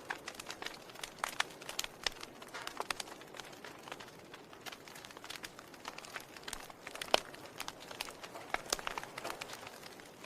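Wood fire crackling: irregular sharp pops and snaps over a soft hiss, the sharpest pop about seven seconds in.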